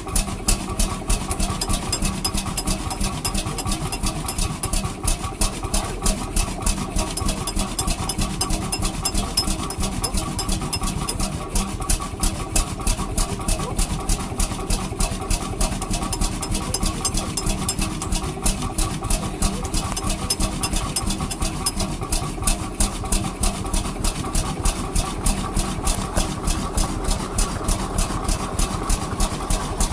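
Vintage engine running steadily at a slow idle, with an even beat of about three firing strokes a second.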